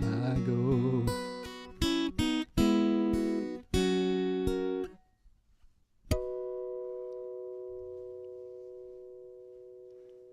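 Acoustic guitar playing the song's closing outro, picked notes and a few strums that stop about five seconds in. About a second later a single bell-like note is struck and rings on, slowly fading.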